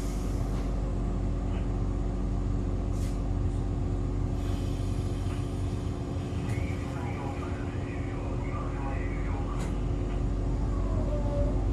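Railcar standing at a station with its equipment humming steadily, a few short hisses of air. Near the end a rising whine begins as the DC traction motors of the MC6101-series car start it moving off.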